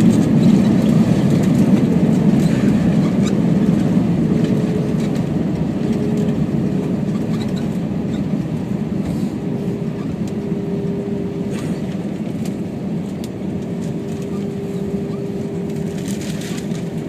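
Cabin noise inside an Airbus A321 slowing on the runway after landing: a loud, low engine and rolling rumble that gradually dies down, with a steady engine hum coming through from about halfway.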